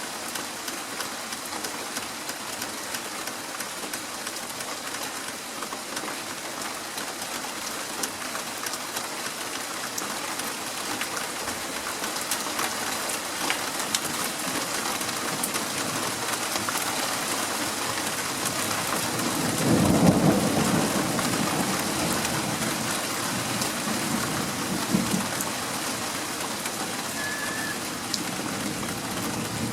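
Steady rain falling and pattering on surfaces in a thunderstorm, with a rumble of thunder about two-thirds of the way through that swells and then fades over a few seconds.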